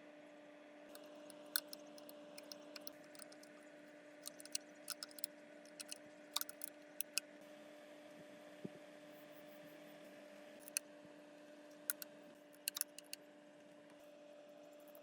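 Scattered sharp, light clicks and ticks, well over a dozen, spread irregularly over a steady low hum.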